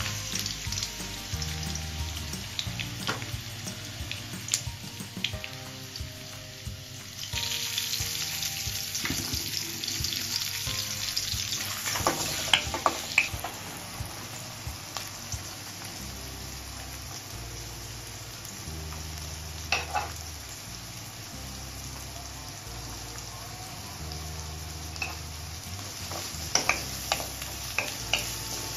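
Chopped onion and ginger sizzling in hot oil in a wok. Now and then a spatula clicks and scrapes against the pan as it is stirred, a cluster of clicks coming around halfway and again near the end. Soft background music with low sustained notes plays underneath.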